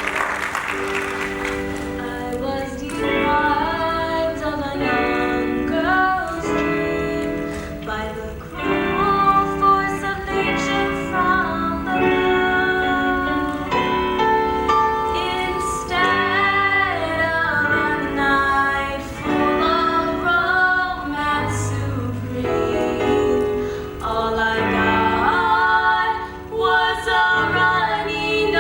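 Music: a woman singing a slow, sad pop song with instrumental accompaniment.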